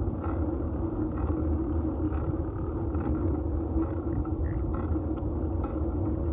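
Fixed-gear bicycle riding on a road, heard from a handlebar-mounted phone: a steady rumble of tyres, road and wind, with a light tick repeating a little under once a second.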